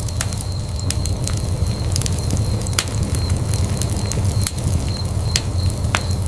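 Wood fire burning in a fireplace: a steady low rumble of flames with irregular sharp crackles and pops, a few a second, one louder pop near the end.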